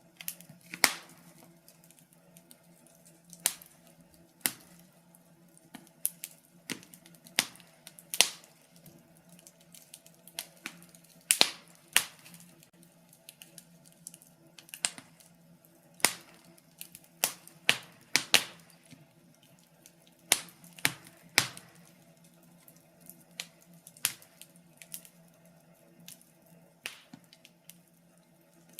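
Wood fire in a fireplace crackling, with irregular sharp pops of varying loudness every second or two. A faint steady low hum runs underneath.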